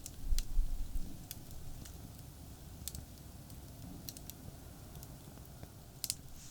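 Campfire crackling, with sparse sharp pops and snaps about once a second, over a low steady rumble of distant expressway traffic; a few dull low thumps come in the first second.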